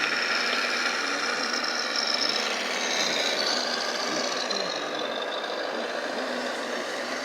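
Small electric motors and gearboxes of RC model construction vehicles whining steadily, the pitch of the whine shifting up and down as they change speed.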